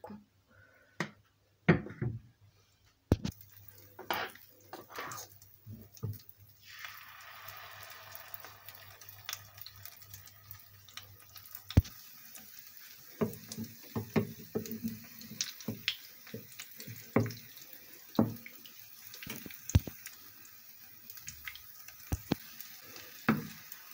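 Kefir pancake batter frying in hot oil in a pan: a steady sizzle that sets in about seven seconds in, with a metal spoon tapping and knocking against the pot and pan as batter is scooped and dropped in.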